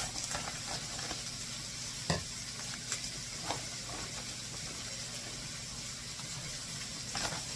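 Chicken pieces and broccoli florets sizzling in butter in a skillet, with a few short knocks of a utensil stirring against the pan, the clearest about two seconds in.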